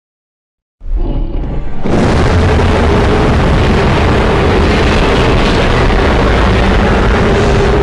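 Custom designed monster roar sound effect: after a moment of silence it starts abruptly about a second in, swells a second later into a loud, dense rumbling roar with deep bass, and holds steady.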